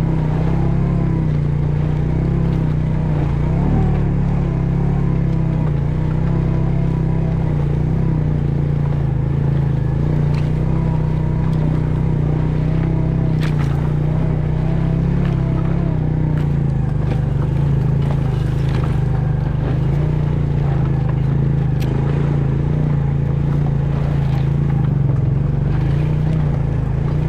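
An engine running steadily, a constant low drone with a light rattle over it.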